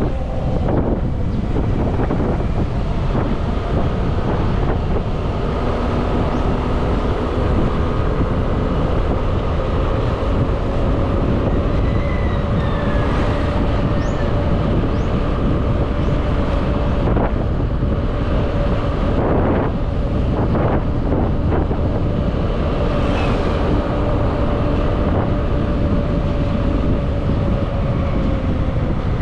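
Motorbike engine running steadily at cruising speed, with wind rushing over the microphone and a faint steady hum.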